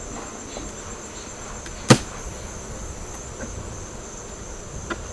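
Steady, high-pitched insect chirring, with a single sharp knock about two seconds in and a lighter click near the end.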